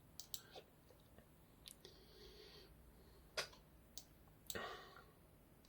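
Near silence with a few faint, scattered clicks of a computer mouse, and a soft breath-like rustle about two seconds in and again about four and a half seconds in.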